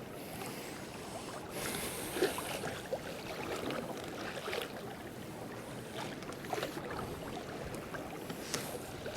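Water lapping and splashing against a fishing kayak's hull, with small scattered knocks and drips.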